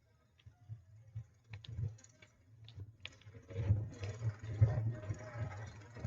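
A mountain bike rolling slowly over a rough, slippery road. A few scattered clicks and knocks come first, then from about three and a half seconds in a louder, uneven rattle with a low rumble.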